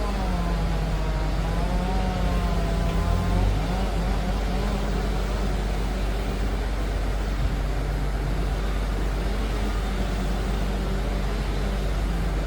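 Diesel engine of a Liebherr PR 746 crawler dozer running under load, with a heavy low rumble and an engine note that rises and falls.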